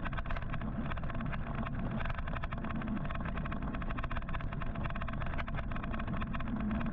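Steady road and wind noise from riding an electric motorcycle through city traffic, with many small clicks and rattles throughout.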